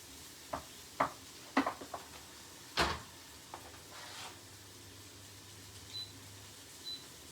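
A handful of short, light knocks and clicks of a utensil against a cooking pan, spaced about half a second to a second apart in the first three seconds, the loudest near three seconds in, over a faint steady low hum.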